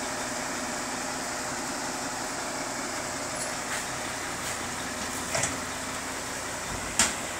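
Log truck's diesel engine idling steadily under a constant hiss of falling rain, with a light knock about five seconds in and a sharper, louder knock near the end.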